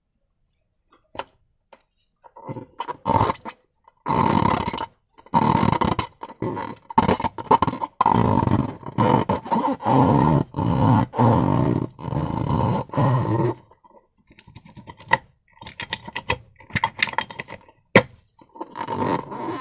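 Slime and rubber balloons worked close to the microphone: a run of loud, rough squelching bursts, each a second or so long, with a steady squeak-like tone running through many of them.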